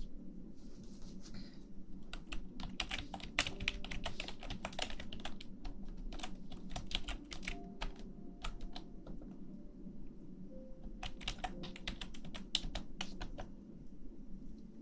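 Typing on a computer keyboard: three bursts of quick key clicks separated by short pauses, over a steady low hum.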